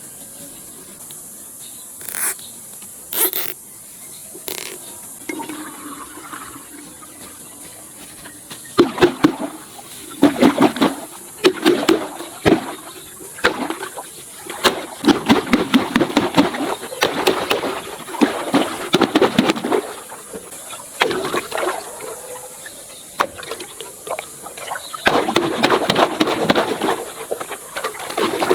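Water gushing and sloshing in irregular bursts over a steady hiss, the bursts starting about a third of the way in.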